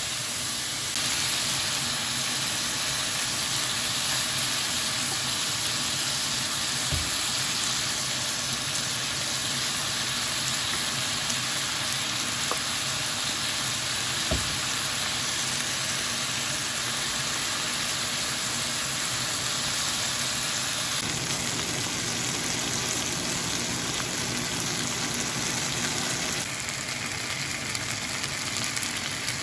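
Mixed vegetables sizzling steadily in a hot non-stick wok as they are stir-fried, with a couple of faint knocks. The sizzle drops slightly near the end.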